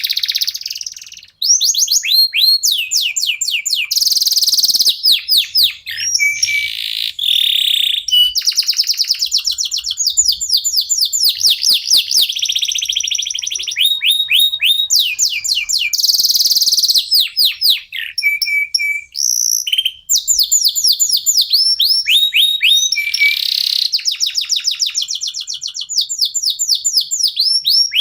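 Domestic canary song: loud, nearly unbroken fast trills of repeated down-slurred notes, switching from one trill to the next every second or two, with brief pauses.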